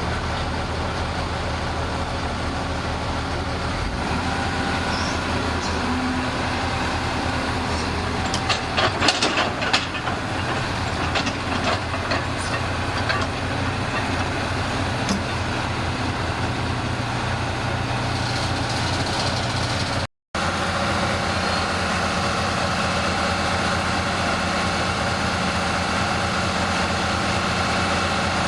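A bulldozer's diesel engine running steadily, with a cluster of sharp knocks and clanks about a third of the way in.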